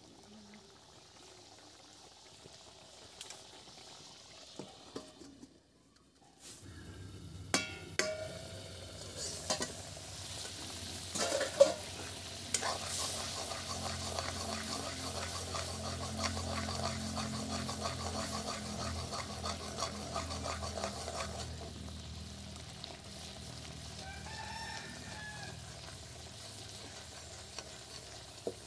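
Quiet at first, then about six and a half seconds in, oil starts sizzling in a metal kadhai as masala fries and is stirred with a spatula, with a few sharp knocks of the spatula against the pan. The sizzle eases somewhat after about twenty seconds.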